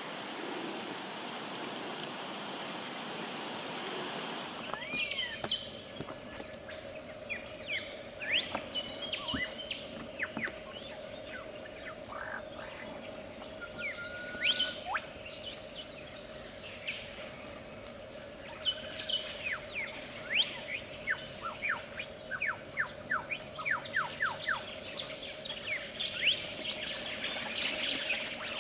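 A lyrebird singing a varied mimicked song of quick sweeping, whistled notes, including a fast run of whip-like notes in the second half, over a faint steady hum. The first few seconds hold only a steady hiss before the birdsong recording begins.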